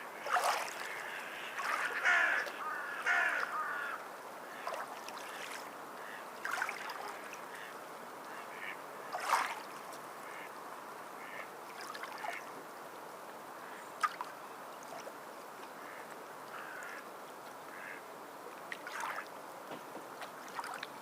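Water birds calling in scattered bouts, busiest in the first few seconds, over a steady wash of sea water. A single sharp click about fourteen seconds in.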